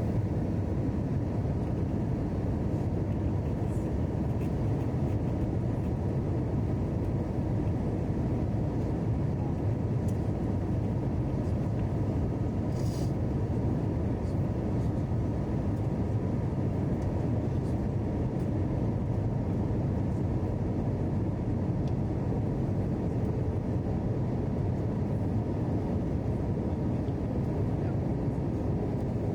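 Steady cabin noise of an Airbus A321 airliner in flight, an even low rumble of engines and airflow. A brief high chirp sounds about halfway through.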